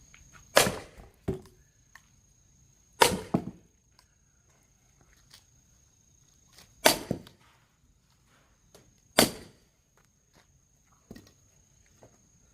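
Axe striking a log of firewood four times, a couple of seconds apart, each heavy chop followed by a smaller knock; the log is hard to split and does not give way within these blows.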